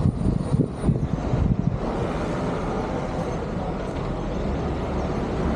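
Vehicle running noise: uneven low rumbling for about the first two seconds, then a steady even rush.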